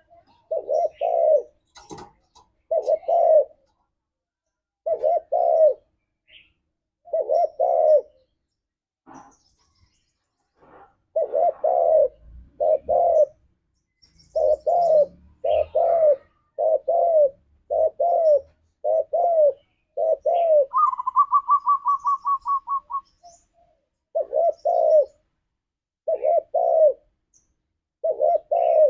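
Spotted doves cooing: short low coo notes repeated in quick clusters of two or three, again and again. About two-thirds of the way through, a fast run of about a dozen higher-pitched notes lasts roughly two seconds.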